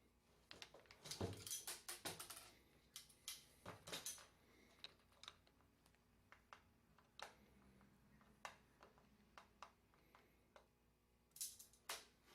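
Scattered light clicks and knocks of small metal parts and hand tools being handled while an automatic drywall taper is taken apart, with a cluster about a second in and another near the end.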